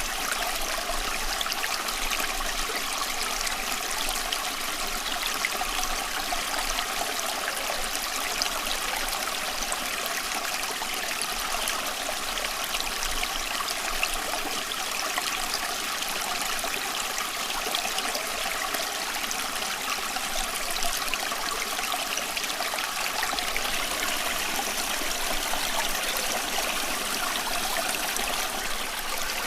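Running water of a stream, a steady babbling flow that holds even throughout.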